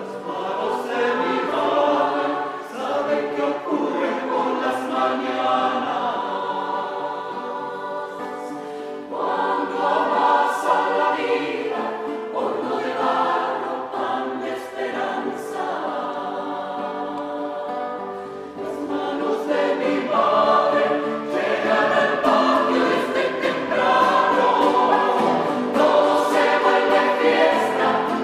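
A choir singing in phrases of a few seconds each, several voices together.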